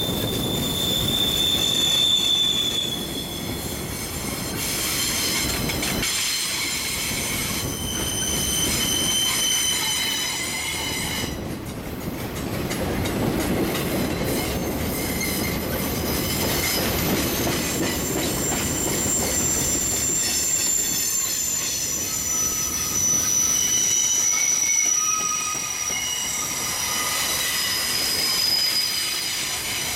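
Loaded freight flatcars rolling slowly past, their steel wheels squealing in thin high tones that come and go and shift in pitch over a steady low rumble.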